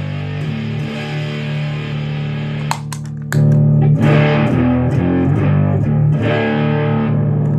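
Electric guitar on its neck humbucker played through an Electro-Harmonix Little Big Muff fuzz pedal alone: sustained, heavily fuzzed chords. A few sharp clicks come about three seconds in, and the playing gets louder after them.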